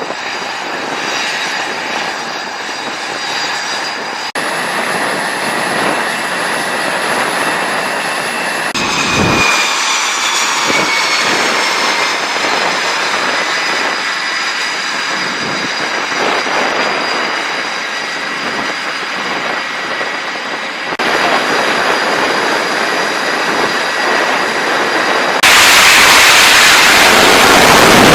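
Jet aircraft engines running with a high whine, in several abruptly cut segments. The whine falls in pitch about ten seconds in, and the noise is loudest over the last few seconds.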